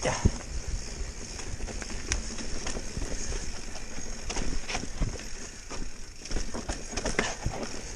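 Mountain bike riding over rough trail: irregular clattering knocks and rattles from the bike, over a steady hiss of wind and tyres.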